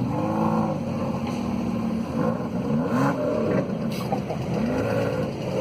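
Car engine running, its pitch rising and falling several times as it is revved.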